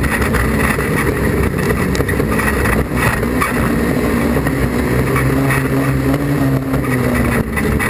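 Class 4 autograss Mini's engine running hard under racing load, heard from inside the stripped-out cabin. The engine note climbs a little about five seconds in.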